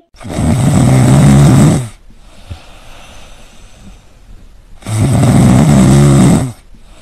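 Loud snoring: two long snores, each nearly two seconds, about three seconds apart, with a faint hiss between them.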